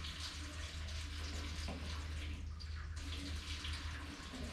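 Steady hiss like running or pouring liquid, over a constant low hum.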